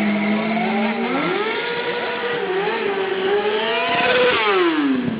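Stunt motorcycle engine revving: the pitch climbs about a second in, holds high with small wavers, then drops steeply near the end as the revs fall away.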